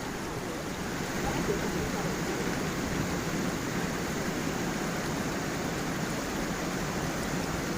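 A small waterfall and stream flowing steadily over stones, an even rush of water with a low burble.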